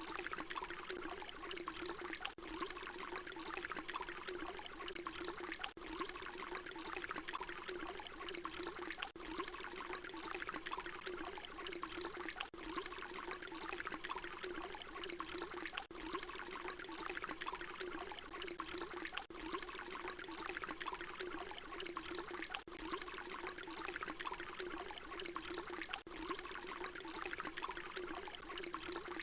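Water pouring in a continuous, steady stream. It is a short recording looped, with a brief dip in level about every three and a half seconds.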